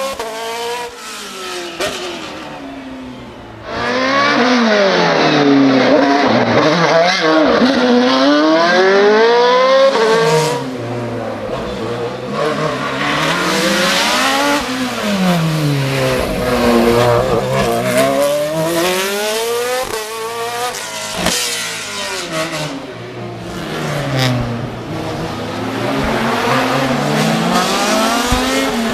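Racing car engines accelerating hard, revving high. The pitch climbs through each gear and drops back at each gear change, over and over. The sound jumps abruptly in level twice, once about 4 seconds in and again around 10 seconds, as one car's run gives way to another.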